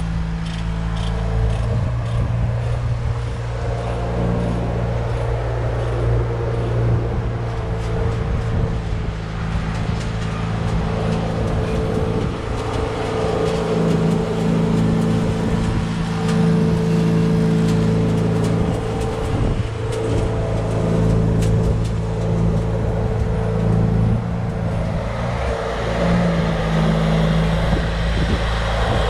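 A heavy engine running steadily, its pitch shifting a little now and then, with a few short knocks about halfway through.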